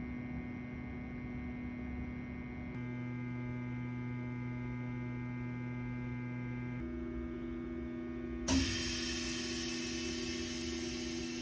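Steady electrical hum made of several held tones, which change abruptly twice. About three quarters of the way through a click is followed by a rise in hissy noise.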